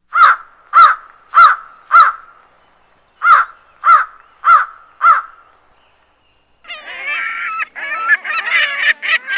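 Bird calls: two runs of four short, harsh calls, evenly spaced, then a dense clamour of many overlapping calls starting about two-thirds of the way through.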